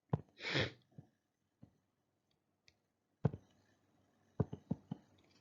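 Scattered soft clicks and taps, about half a dozen, with a cluster of four quick clicks past the middle, and a short breath about half a second in.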